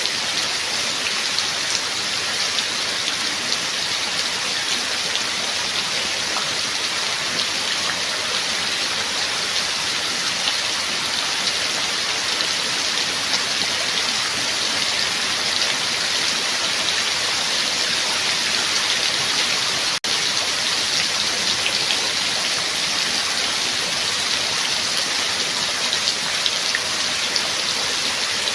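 Steady rain falling, a dense even hiss of drops with many small individual patters. One split-second break in the sound about two-thirds of the way through.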